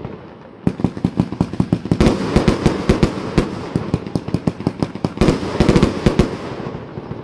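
A 600-shot fireworks cake firing, its shells bursting in rapid runs of sharp bangs that come in two dense volleys and thin out near the end.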